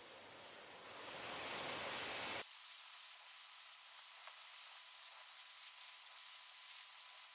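Compressed air from a blow gun hissing as it blows rinse water off cleaned spark plugs to dry them. A full hiss lasts about two and a half seconds, then it drops abruptly to a thinner, higher hiss.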